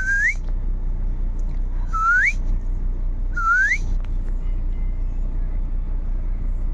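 A pet parrot whistling three times, each a short upward-sliding whistle about a second and a half apart, over the steady low rumble of a moving car's cabin.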